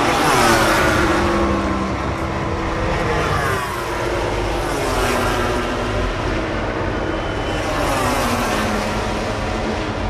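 MotoGP racing motorcycles passing at high revs, each engine's pitch dropping as it goes by, about four pass-bys in a row.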